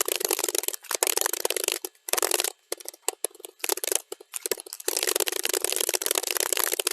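Fast typing on a computer keyboard, played back at double speed: a dense stream of key clicks that thins to scattered keystrokes and brief pauses about two and a half seconds in, then picks up again at full pace near the five-second mark.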